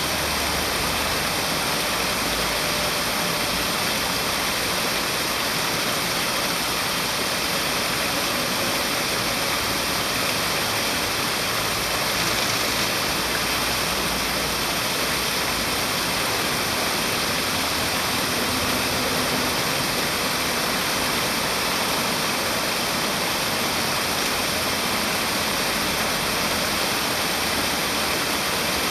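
Steady rushing of flowing water, even and unbroken throughout, with a faint steady high-pitched tone running through it.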